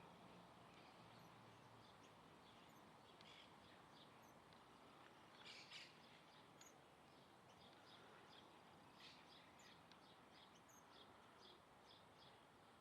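Faint birds chirping: many short, high chirps scattered throughout, busiest around five and a half seconds in, over a steady low hiss.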